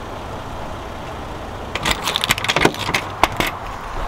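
Car engine idling with a steady low rumble. About two seconds in comes a short cluster of sharp, irregular clicks and rattles.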